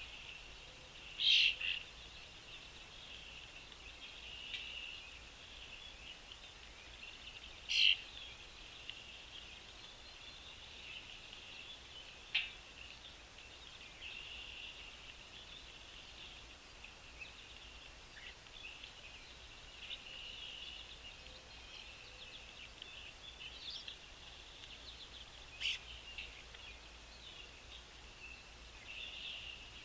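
Small birds chirping steadily, with a few louder, sharp calls standing out about a second in, near eight seconds, around twelve seconds and near the end.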